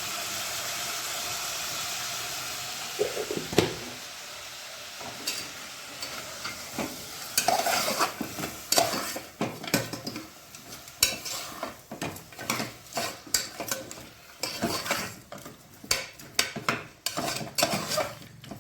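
Mutton pieces sizzling in hot oil in a cooking pot, then a spoon stirring and scraping against the pot with many quick scrapes and knocks from about five seconds in.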